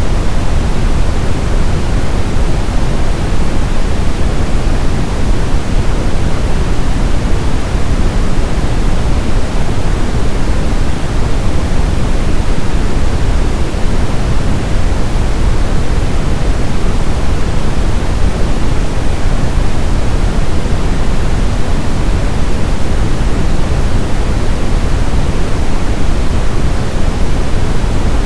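Steady brown noise: an even, unchanging hiss-like rush weighted toward the deep end, with no tones or events.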